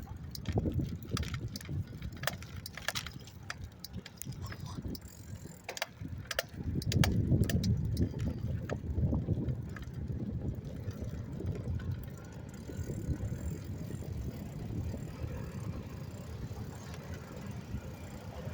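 A bicycle being ridden: a steady low rumble from the ride, with scattered sharp clicks and rattles over the first half. The rumble swells louder about seven seconds in.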